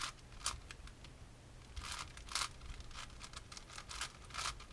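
Plastic puzzle cube being turned by hand in a speedsolve: irregular quick clicks and clacks of its layers turning, several a second.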